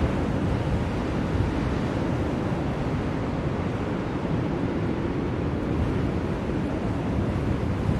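Steady blizzard wind, a deep, even rush of noise with no gusts or breaks standing out.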